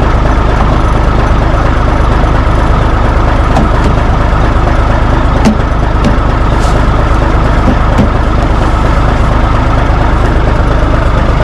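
Heavy diesel truck engine idling steadily and loudly close by.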